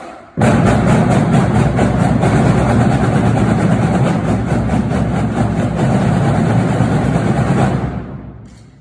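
Percussion ensemble playing very loudly, recorded so close that it comes through as a dense, distorted wash with a faint steady pulse of strokes; it starts abruptly and fades out near the end.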